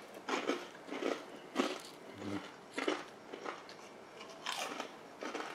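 Biting into and chewing a crispy onion ring: a string of sharp crunches, roughly two a second.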